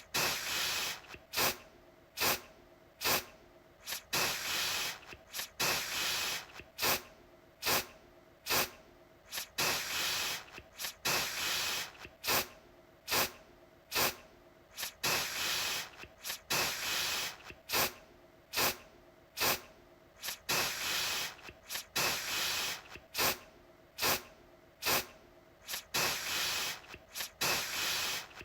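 Aerosol deodorant can sprayed in short hissing bursts, roughly one a second, some in quick pairs.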